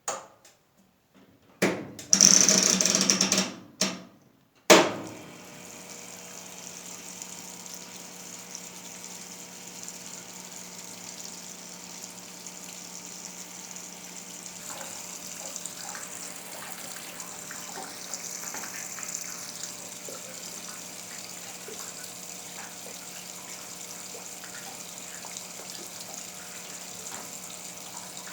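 1977 Westinghouse Lavínia washing machine: a few knocks and clicks in the first seconds, then, from about five seconds in, water running steadily into the machine as it fills, with a steady low hum underneath.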